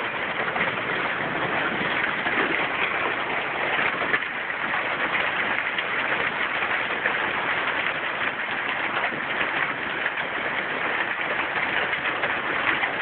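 Hail falling, a steady dense patter of many small impacts.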